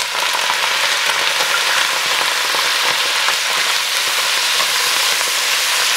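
Broccoli rabe sizzling and splattering hard in hot oil and garlic in a Dutch oven, just added to the pan and being turned with tongs: a loud, steady sizzle.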